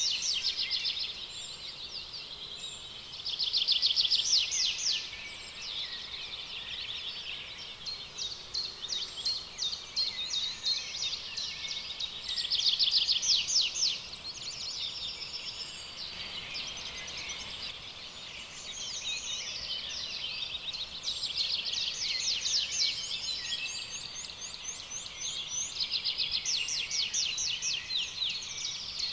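A dense chorus of birdsong: many birds calling at once, with rapid trills and chirps overlapping without a break, swelling louder around 4 s and 13 s in.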